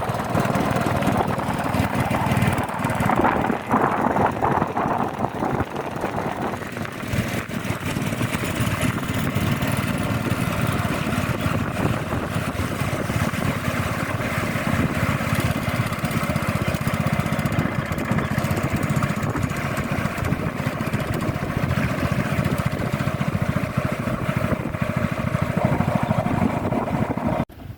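Small boat engine running steadily while the boat is under way. It cuts off suddenly near the end.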